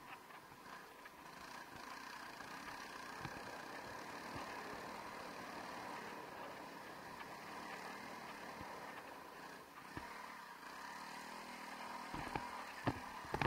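Honda CRF300L Rally's single-cylinder engine running, muffled under a steady noise haze, with a few sharp knocks near the end.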